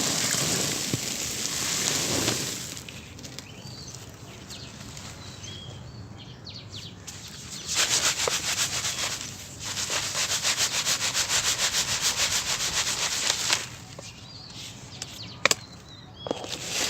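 Dry sand-cement being crushed into powder: gritty crunching in several spells, one with a quick run of crunches at about three to four a second, and a single sharp crack near the end.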